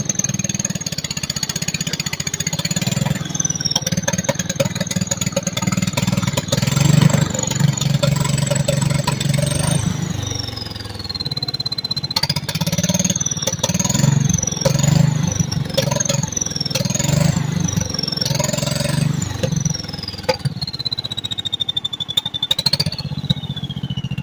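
Turbocharged Kohler Magnum 12 single-cylinder engine on a Toro Wheel Horse mower, run with no air filter into a straight stack, being revved in repeated blips. A small Garrett turbo whistles high over the engine's pulse, the whistle rising with each blip and falling away as the throttle drops, with a long falling spool-down near the end.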